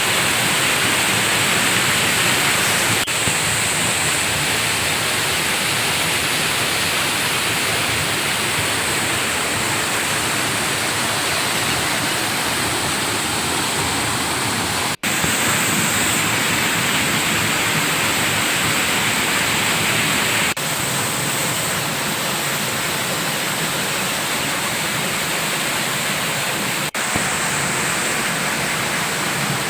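Waterfall: a loud, steady rush of falling water, broken by brief dropouts a few times.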